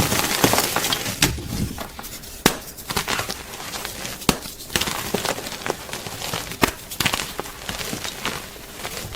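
Gym chalk being crunched up close. A dense run of crumbly crackling comes in the first second or so, then single sharp cracks and crunches at uneven gaps.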